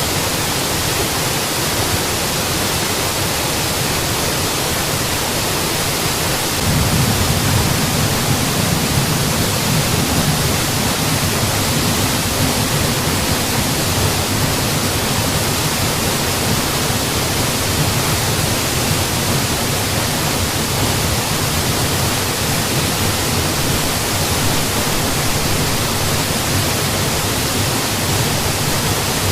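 Mountain waterfall: a steady rush of falling water. A deeper low rumble swells a little louder about seven seconds in and stays.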